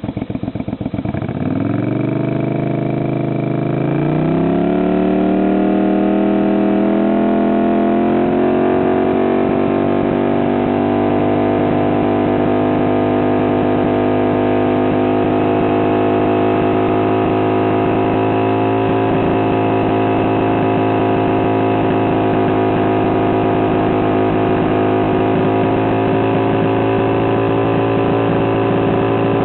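Suzuki VS400 Intruder's V-twin engine revved up from idle in steps over the first few seconds, then held at a steady raised speed. The owner is showing that this engine misfires.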